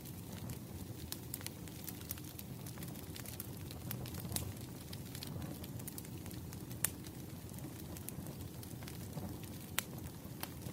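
Wood fire crackling: scattered sharp pops and snaps over a low, steady rumble, with a louder pop about seven seconds in and another near ten seconds.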